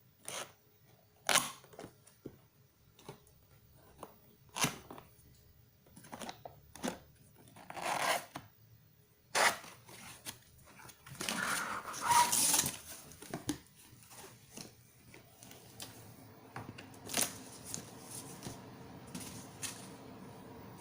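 Unboxing handling noise: a cardboard box and packed parts being knocked and moved, with scattered sharp clicks and knocks. Packaging rustles and tears about eight seconds in and again around twelve seconds in.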